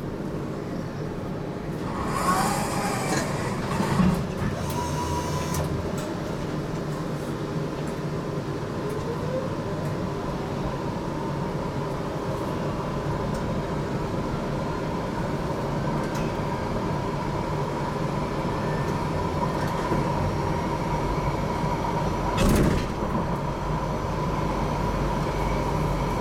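Inside an HTM GTL8 articulated tram: a hiss and a thump about two to four seconds in, typical of the doors closing, then the tram pulling away and running, with a rising motor whine and a steady electric tone over the rumble of the wheels. A short loud rush comes about 22 seconds in.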